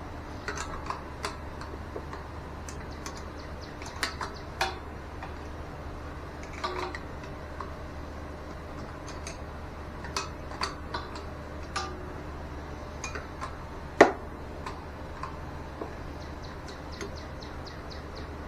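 Metal hand tools and air-line fittings clicking and clinking irregularly as fittings are put on and tightened, over a steady low hum. One sharp, louder metallic knock comes about two-thirds of the way through.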